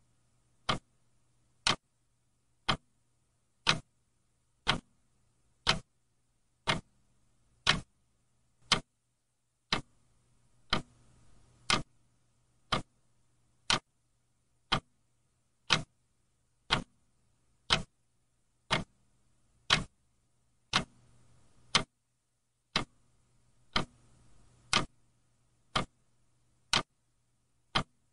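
Mechanical clock ticking, sharp evenly spaced ticks at about one a second.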